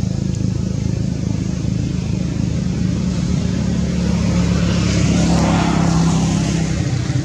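A motor vehicle engine running steadily, with a broader rush of noise swelling and fading between about four and six and a half seconds in, as of a vehicle passing close by.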